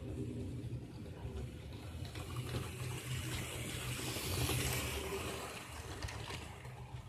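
Model diesel train running on a model railway: a steady low motor hum with a rushing noise that swells and fades about four to five seconds in.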